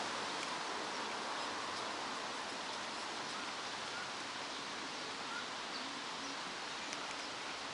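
Steady rustling of wind blowing through tree leaves, an even outdoor hiss with no clear events.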